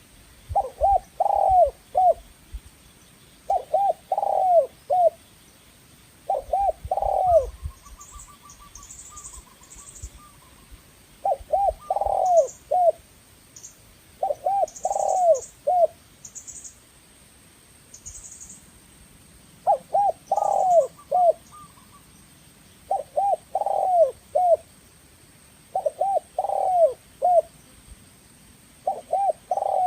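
Spotted dove (tekukur) cooing: a phrase of several quick, short coos, repeated about every three seconds.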